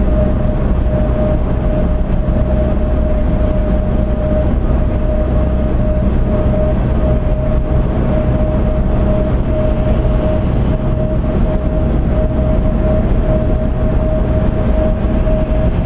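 Steady road and engine noise heard from inside a moving car at highway speed, a low rumble with a thin steady whine running through it.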